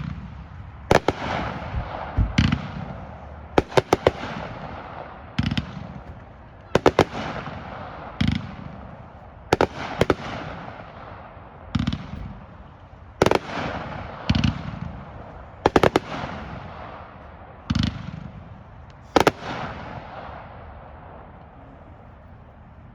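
Consumer firework cake firing shot after shot, about fifteen sharp bangs over roughly twenty seconds, some in quick doubles, each with a hissing, crackling tail. The shots stop near the end and a fading hiss remains.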